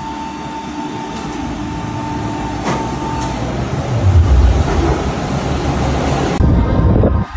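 Formula 1 cars' 1.6-litre turbo-hybrid V6 engines running at the circuit, heard as a loud, steady rumbling mix of engine and track noise that changes abruptly about six seconds in.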